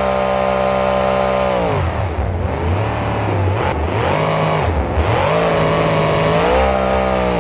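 Engine revving sound effect. The engine holds high revs, drops back about two seconds in, revs up and down again, then climbs and holds high near the end.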